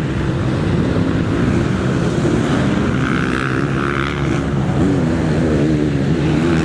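Motocross bike engines racing on the track, their notes revving up and down as the riders work the throttle; the sound grows louder over the first second, then holds.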